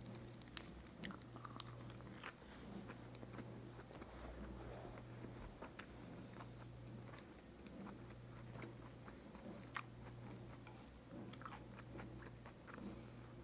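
Faint close-up chewing of bulgogi beef wrapped in lettuce: soft mouth sounds with scattered crisp clicks and crunches, over a steady low hum.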